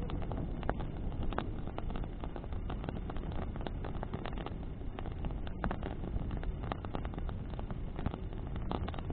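Bonfire burning in the wind: wood crackling and popping in frequent irregular snaps over a steady low rumble of wind and flame.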